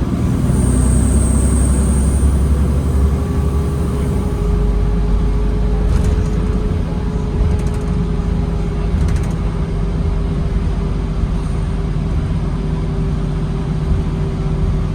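2009 New Flyer D40LFR diesel transit bus running: a steady low rumble with a whine holding one pitch throughout, and a thin high whine for about two seconds near the start.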